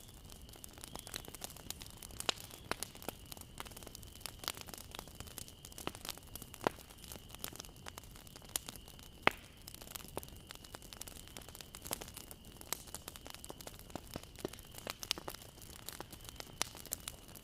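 Bonfire crackling: irregular sharp pops and snaps of burning wood, a few louder than the rest, over a steady low hiss.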